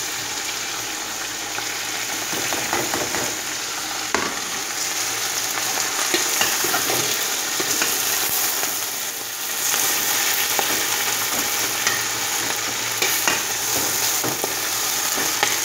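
Saag (leafy greens) sizzling as they fry in hot oil with browned onions in a pot: a steady hiss, with scattered clicks of stirring.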